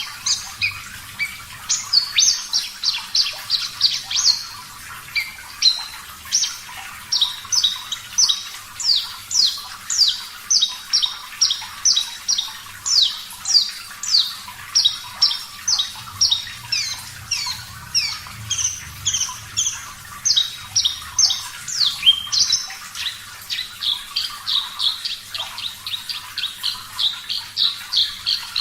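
Horsfield's bush lark (branjangan, Mirafra javanica parva) singing a long, unbroken song: a rapid string of sharp, high, down-slurred notes, two or three a second, in shifting phrases.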